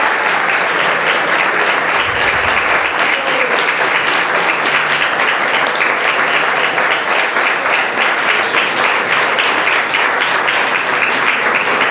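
Audience applauding steadily: a large hall full of people clapping after a grant winner is announced.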